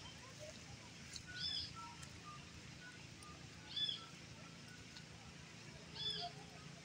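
A bird repeating the same short, high call three times, about every two and a half seconds, with faint shorter chirps from other birds in between.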